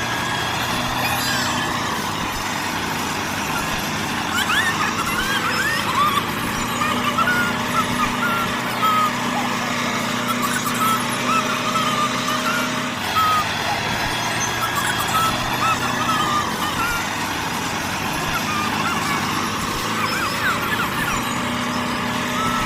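Mini MF 385 tractor's motor running steadily while it plows through mud, a continuous hum with short high chirps over it.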